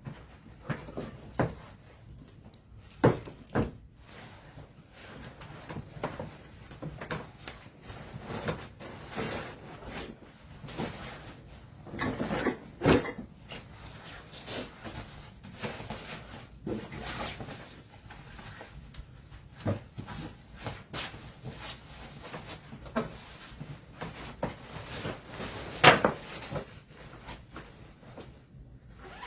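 Irregular knocks, clicks and rubbing of objects being handled and set down, with a few sharper knocks about three, thirteen and twenty-six seconds in.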